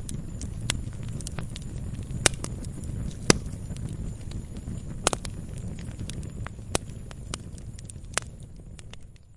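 Wood fire in a fireplace crackling: irregular sharp pops and snaps, a few much louder than the rest, over a low steady rumble of the flames. The sound fades down near the end.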